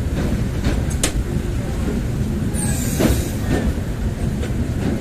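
Passenger train running: a steady low rumble of wheels on track, with a sharp click about a second in and a brief high squeal sliding down in pitch about two and a half seconds in.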